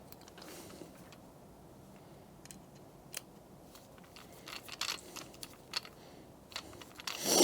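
Faint, scattered small metallic clicks and taps as a hole saw's arbor and pilot drill bit are handled and refitted.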